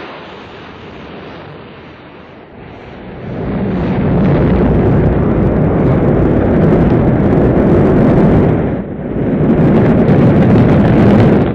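Airplane engine roar, a loud, deep rushing rumble that swells much louder about three seconds in and dips briefly near the end.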